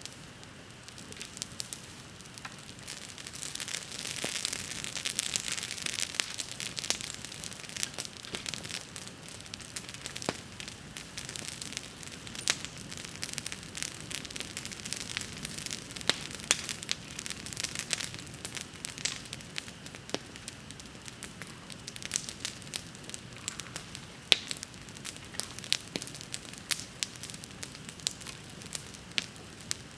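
Wood bonfire crackling, with frequent sharp pops and snaps over a steady hiss; the hiss swells for a few seconds near the start.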